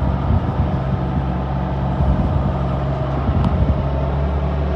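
Farm tractor engine running steadily under way, with a low even hum and some faint rattling.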